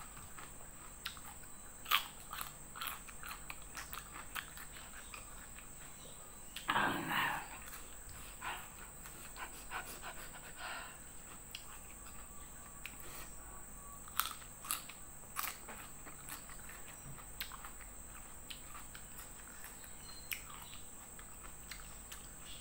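Close-up eating sounds: a woman chewing steamed chicken picked off the bone by hand, with soft mouth clicks, lip smacks and small finger taps scattered through, and one louder, longer mouth noise about seven seconds in.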